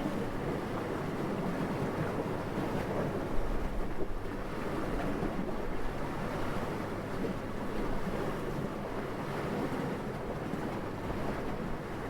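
Steady rushing wind, with a brief low buffet of wind on the microphone about three and a half seconds in.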